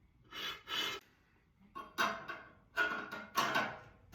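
Tuba slide being worked out of the horn and cleared: five short rushing, rubbing noises, two close together at the start and three more, slightly louder, in the second half.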